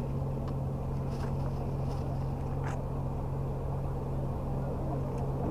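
An engine running steadily at idle, a constant low hum, with a few faint clicks over it.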